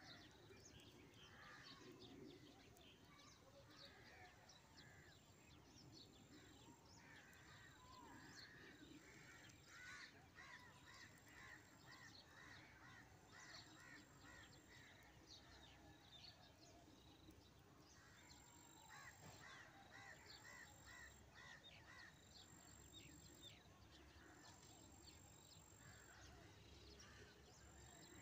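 Near silence: faint background ambience with distant birds chirping in quick runs of short repeated calls.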